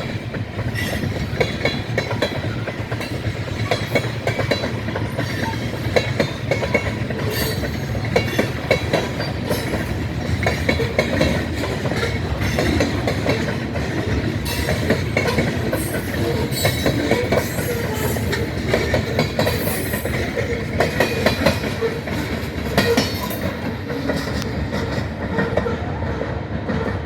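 Freight train cars rolling past at a grade crossing: a steady rumble with irregular clicking and clanking of wheels over the rail joints, easing off near the end.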